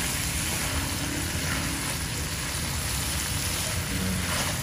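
Giant freshwater prawns frying in butter and chilli in a nonstick wok while being stirred with a spatula: a steady sizzle.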